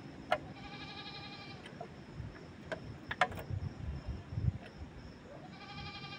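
An animal bleating twice, each call about a second long, the second starting near the end. A few sharp clicks or taps come in between.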